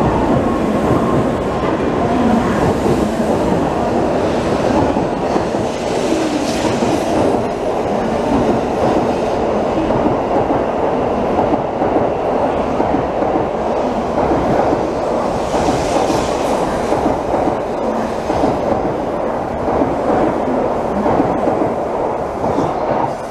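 Shinkansen bullet train running past close along the platform: a loud, steady rumble of wheels on rail as the carriages go by, swelling briefly now and then.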